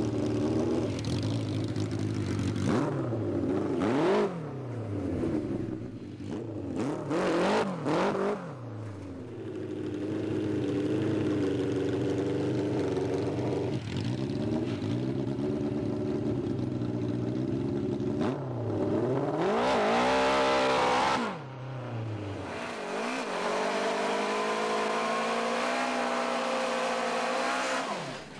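Honda CB750 inline-four motorcycle engine in a garden tractor, revved up and down several times, with a long hard rev about twenty seconds in, then running steadily near the end.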